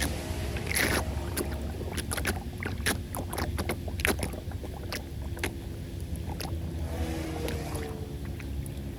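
Floodwater draining into a cleared street drain with a steady low rush, with scattered clicks and knocks over it.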